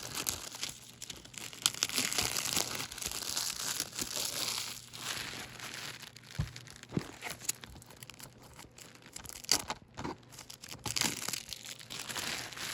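Plastic shrink wrap crinkling and tearing as it is peeled off a Blu-ray case by hand, with scattered sharp crackles.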